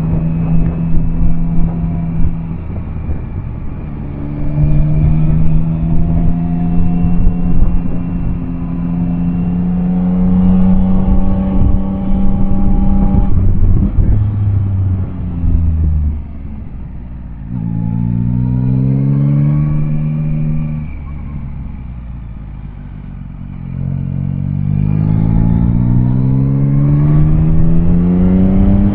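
Yamaha Tracer 9's three-cylinder engine pulling up a mountain road. The engine note rises under acceleration several times and drops back as the throttle eases between bends. It goes quieter and lower for a few seconds about two-thirds through, then climbs again near the end.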